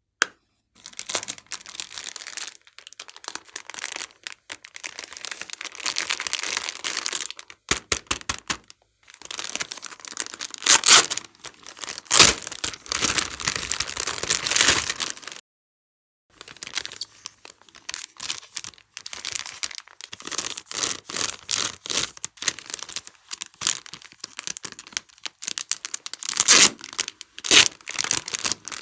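Slime being squished, stretched and kneaded by hand: dense sticky crackling and popping of air pockets, in long stretches broken twice by short pauses.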